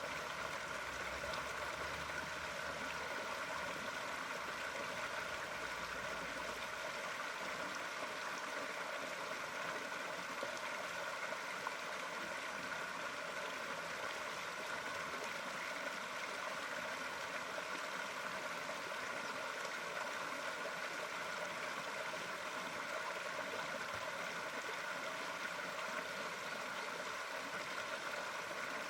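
Water running and splashing steadily, like a small stream or pond waterfall, with a faint low rumble underneath for the first several seconds.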